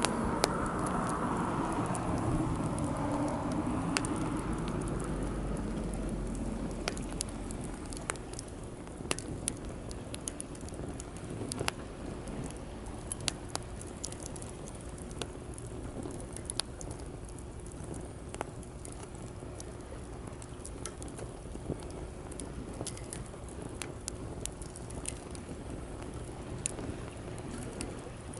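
Wood fire crackling in a fire-pit stand, with irregular sharp pops and snaps over a steady hiss. A louder rushing sound at the start dies away over the first five seconds or so.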